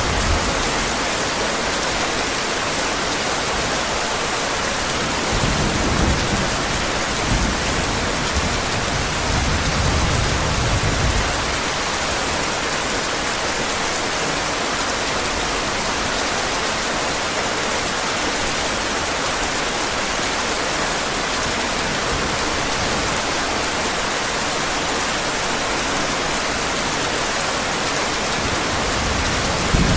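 Heavy rain falling, a steady dense hiss, with a low rumble of distant thunder swelling about a fifth of the way in and fading out a few seconds later.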